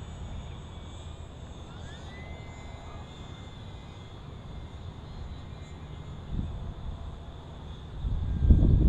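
The small electric motor and propeller of a micro RC airplane whine faintly and steadily from the plane in flight. The pitch rises with throttle about a second and a half in and then holds. Near the end, wind gusts rumble on the microphone.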